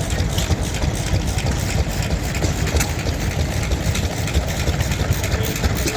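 A heavy engine idling steadily with a low, fast-pulsing rumble.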